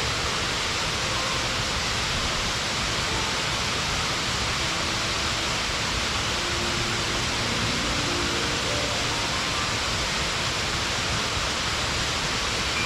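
Steady rush of a waterfall, with faint background music playing soft melodic notes over it.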